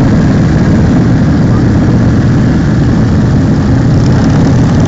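Motorcycle engines running loudly and steadily.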